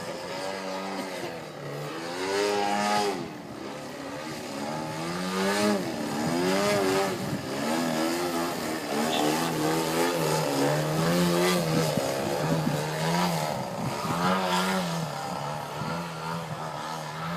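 Engine of a large radio-controlled model airplane running in flight, its pitch rising and falling again and again as it throttles and passes overhead.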